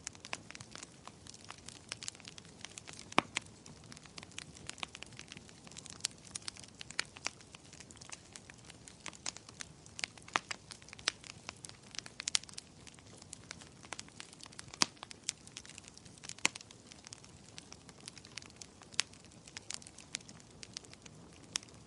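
Firewood burning in a fireplace, crackling with irregular sharp pops and snaps over a low steady hiss, a few snaps much louder than the rest, one about three seconds in.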